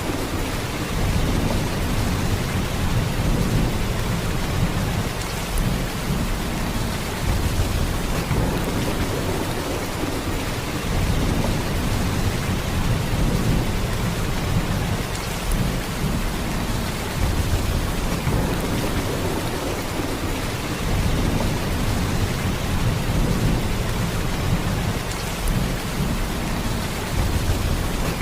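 Steady heavy rain downpour, an even hiss of falling water over a constant deep low rumble, with no separate claps or other events.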